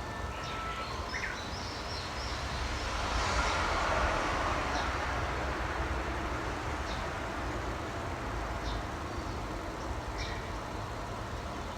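Wild birds giving short, high chirps every few seconds over a steady low outdoor rumble. About four seconds in, a broad rushing noise swells and then fades.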